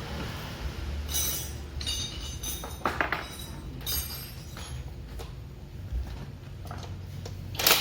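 Metal tools and parts clinking and scraping against each other, a handful of separate knocks with a brief ring, the loudest near the end, over a steady low hum.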